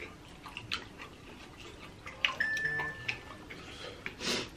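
Wet chewing and lip-smacking on saucy chicken wings, small sharp clicks scattered throughout. A thin high steady tone sounds for about a second a little past the middle, and a short hiss comes near the end.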